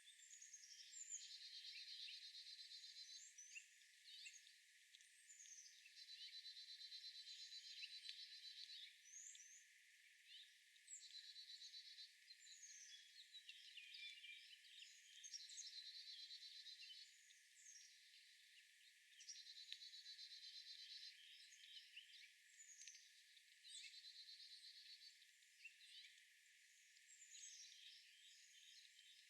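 Faint songbirds singing: a trilled phrase repeated every four to five seconds, with short high chirps and down-sweeping calls in between.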